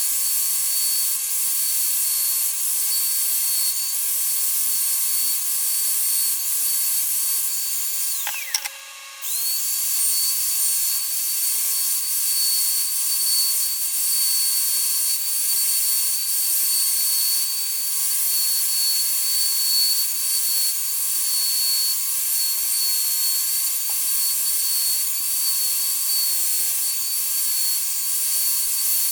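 A small high-speed rotary power tool running steadily with a high whine. About eight seconds in it is switched off and its whine falls as it winds down, then it is switched back on about a second later and runs on.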